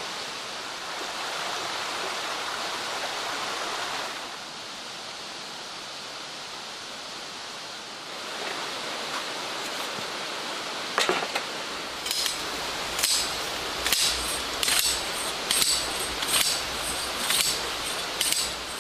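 Mountain stream rushing steadily. In the last third, a regular series of sharp knocks comes about once a second, eight or so in a row.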